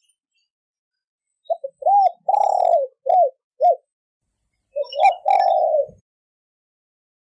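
Spotted dove cooing: a phrase of short coos with one long drawn-out coo in the middle, starting about a second and a half in, then a second shorter phrase ending in a long coo about five seconds in.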